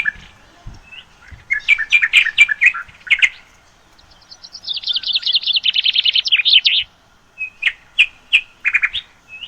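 Small caged parrots chirping: a quick cluster of high chirps, then a longer fast chattering run, then a few separate chirps near the end, with short pauses between.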